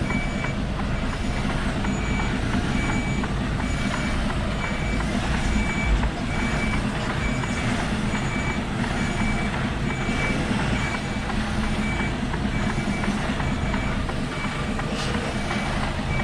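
Lorry's reversing alarm beeping steadily, about one and a half beeps a second, over the truck's engine running at low revs while it backs up.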